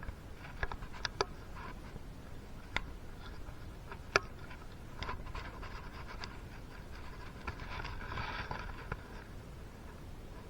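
Scattered sharp clicks and light scraping of hand tools and small engine parts being handled, with a stretch of softer rubbing and rustling in the second half.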